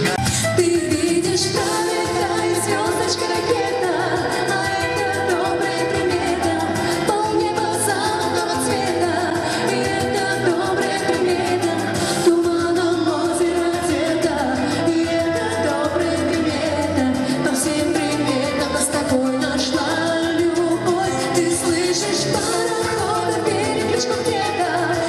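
A live pop band playing a song with singing and a steady beat.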